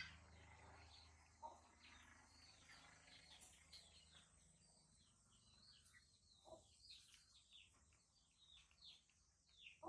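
Near silence, with faint, rapid chirping of small birds in the background, many short falling chirps a second.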